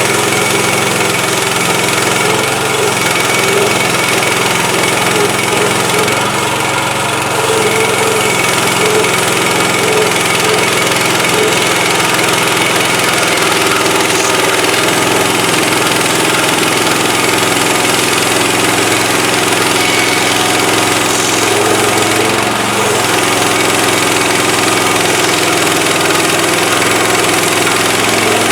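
Gas engine of a Woodland Mills HM130 Max portable bandsaw mill running steadily, its pitch shifting slightly a couple of times.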